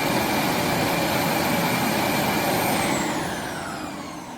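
Vacuum suction motor running with a steady high whine, then switching off about three seconds in and winding down, its whine falling in pitch as it fades.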